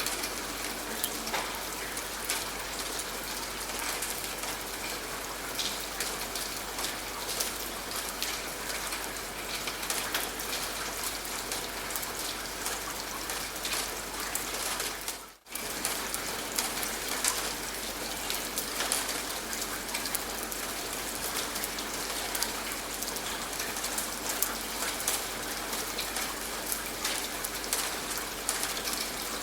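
Steady rain falling, with many distinct drop hits over an even hiss. It dips briefly almost to silence about halfway through, then comes back at the same level.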